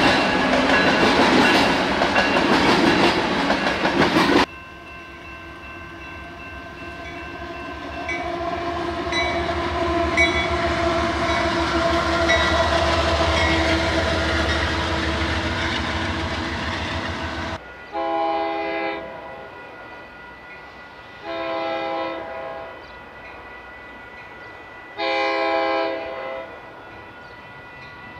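A train passing close with loud wheel and rail noise, cut off abruptly about four seconds in, then the rumble of another train building. In the second half a locomotive air horn sounds three separate blasts of about a second each, each a chord of several tones.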